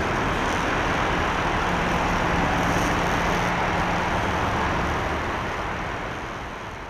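Airbus A340-300 with four CFM56 jet engines, heard as a steady, even rush of engine noise that fades away near the end.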